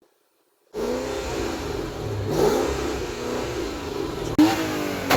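Car engine revving through a loud exhaust. It cuts in suddenly after a moment of silence, with sharp exhaust pops twice near the end.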